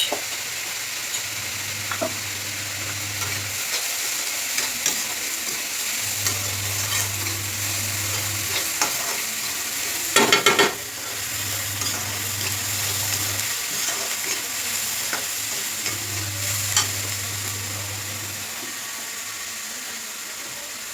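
Onion and tomato masala frying in oil in a pan, sizzling steadily as a spatula stirs it with occasional clicks and scrapes against the pan. A little past halfway comes a quick run of about four knocks of the spatula on the pan.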